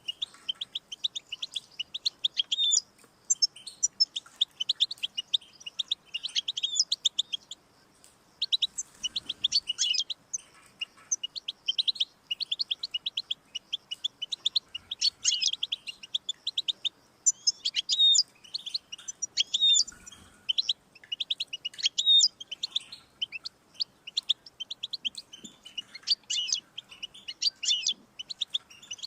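European goldfinch singing: a fast, nearly unbroken twittering of short, high notes and trills, broken by a few brief pauses.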